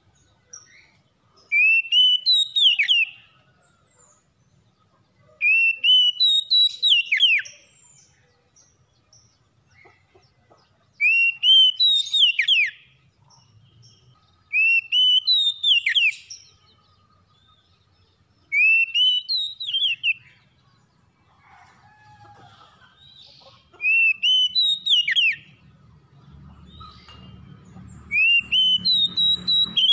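Oriental magpie-robin (kacer) singing, repeating the same loud whistled phrase seven times, about every four seconds: a short rising note followed by a steep falling sweep. A faint low rumble comes in near the end.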